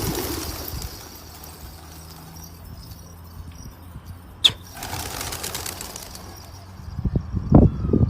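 Domestic pigeons' wings flapping at the start, then a faint steady low hum, with one sharp click about four and a half seconds in and a few low thumps near the end.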